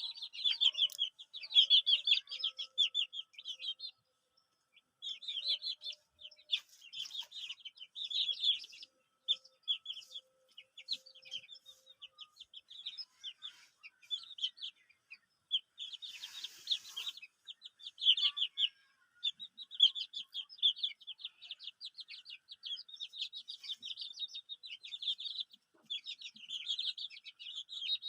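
A group of chicken chicks peeping, many rapid high chirps overlapping with only brief pauses. A short burst of rustling noise cuts in about two-thirds of the way through.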